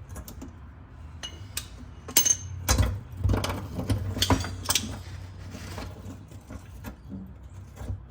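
Metal hand tools and parts clinking and knocking, a scatter of sharp clicks that is busiest in the middle, over a steady low hum.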